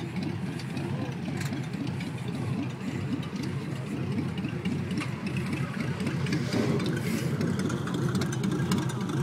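Hot rod roadster's engine idling with an uneven, lumpy beat as the car creeps along, growing a little louder in the second half.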